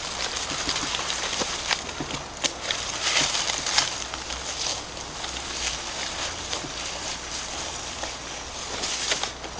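Footsteps pushing through dry grass and brush, with irregular rustling and crackling of stalks and leaves.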